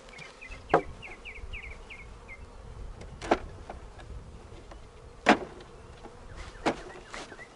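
Honey bees buzzing around an open hive, broken by four sharp knocks of wooden hive parts being handled, the third the loudest. A short run of high chirps comes about a second in.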